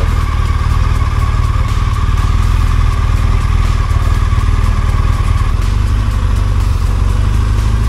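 BMW R 1200 GS boxer-twin engine running steadily at low speed as the motorcycle rolls slowly along.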